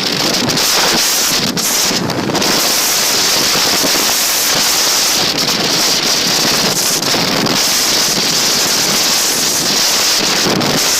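Strong wind buffeting the microphone during a tornado: a loud, steady rush of noise with brief dips between gusts.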